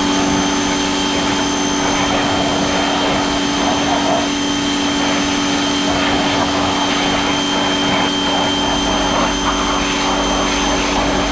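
Vacuum motor running steadily, a constant whine over a rushing of air.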